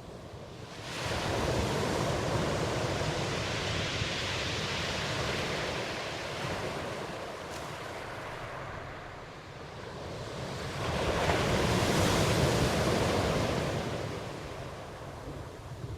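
Ocean surf: waves breaking and washing in, in two swells, the first about a second in and the second about ten seconds later.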